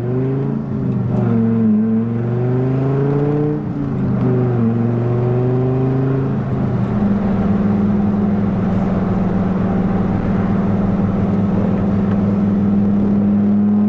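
1997 Dodge Viper GTS's 8.0-litre V10 under way, revs climbing and falling back at gear changes over the first seven seconds, then holding steady at a constant cruise.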